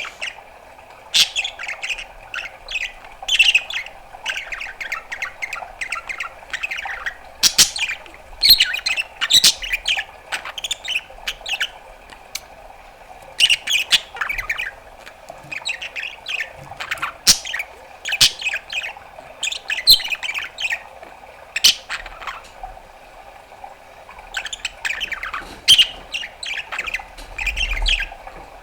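Budgerigar chattering: quick chirps, clicks and harsh squawks in bouts, with short pauses between them.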